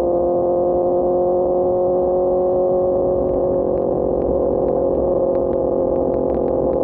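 QJMotor SRK600 inline-four engine running at steady revs through an Austin Racing GP1R exhaust while riding, its pitch creeping up slightly.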